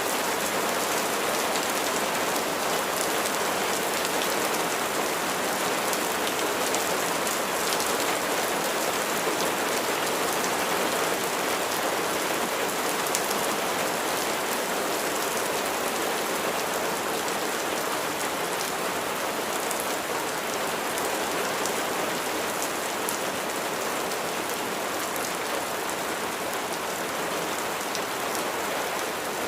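Steady rain falling: an even hiss of many drops, with single drop hits standing out here and there.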